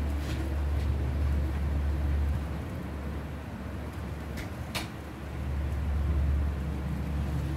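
Strong gusty wind, heard as a deep rumble that swells, eases and swells again, with two short clicks a little past the middle.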